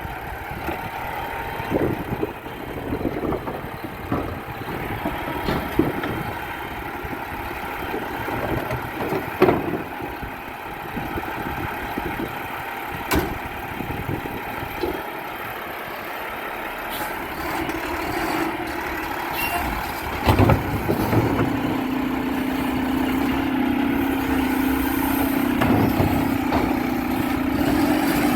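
Garbage truck running at the curb, with scattered knocks and clanks. About two-thirds of the way through a steady drone sets in and climbs slightly, growing louder toward the end.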